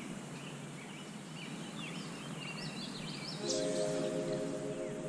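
Small birds chirping in short, quick calls over a steady low background noise. About three and a half seconds in, a steady pitched hum with several tones sets in and carries on.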